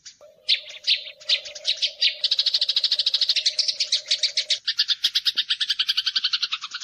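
Eurasian tree sparrows chattering in a fast, dense stream of chirps, the agitated calling of sparrows fighting. The chirps grow thicker and faster about two seconds in, and a faint steady low tone sits beneath them for the first two-thirds.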